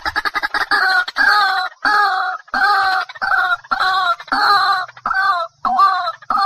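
White-breasted waterhen calls played as a trapping lure: a fast run of short clicking notes in the first second, then loud, harsh croaking calls repeated about every 0.7 s.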